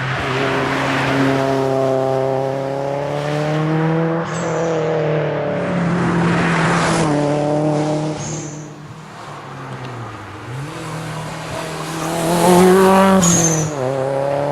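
Subaru WRX STI's turbocharged flat-four engine accelerating hard through the gears, its pitch climbing and then dropping at each upshift, with a short high chirp at every change. Just after the middle it eases off and runs lower and quieter for a few seconds, then pulls hard again.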